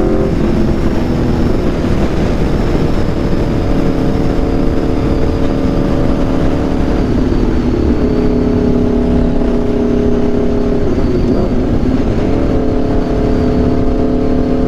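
Aprilia RSV4's V4 engine through an SC-Project CRT exhaust, running under load at highway speed, with wind rushing over the microphone. The engine note drops just after the start, steps down again about seven seconds in, and dips then rises again around eleven to twelve seconds.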